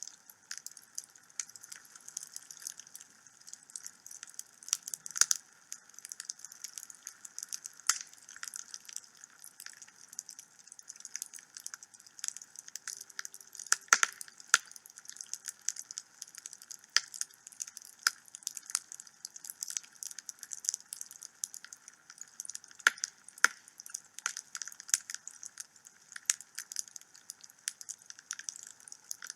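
Wood fire burning in a home fireplace: a steady run of irregular crackles and snaps with a faint hiss underneath, a few louder pops standing out, one about halfway through.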